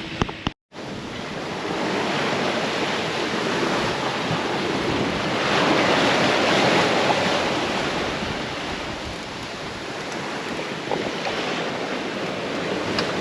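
Water rushing and splashing along a sailboat's hull under sail, with wind buffeting the microphone; the rush swells about halfway through and then eases.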